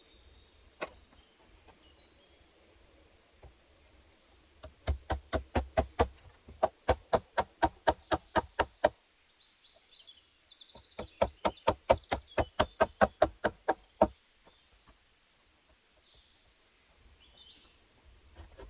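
Two runs of rapid, evenly spaced knocking strikes, about four or five a second, the first lasting about four seconds and the second about three, with a pause between. Birds chirp faintly in the background.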